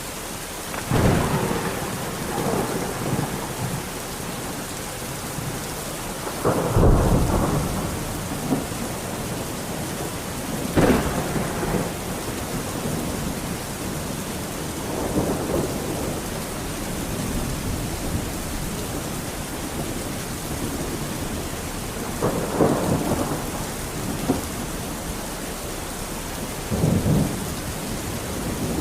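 Steady rain falling, with thunder rolling in again and again: about six rumbles and cracks over the half minute, the loudest two close together about a quarter to a third of the way in.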